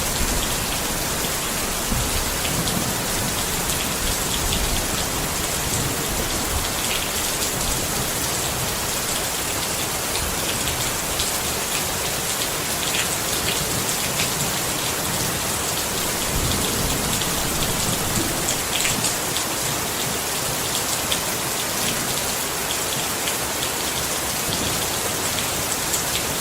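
Steady rain falling on a tent: a dense, even hiss with scattered sharper drop taps.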